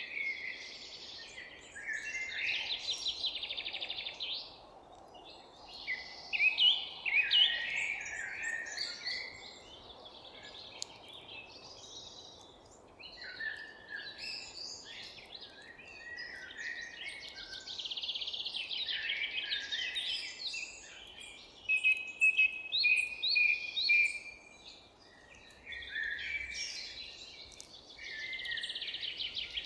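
Several songbirds singing at once: overlapping chirps, quick trills and short warbled phrases that come and go throughout, over a faint steady background hiss.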